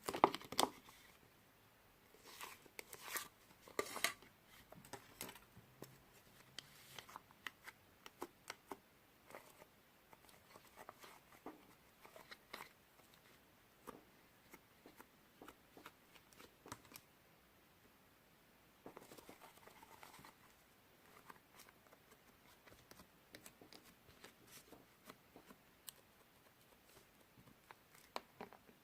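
Slime being pressed, stretched and poked by hand, giving faint, irregular sticky clicks and crackles, with a denser crackling stretch about two-thirds of the way through.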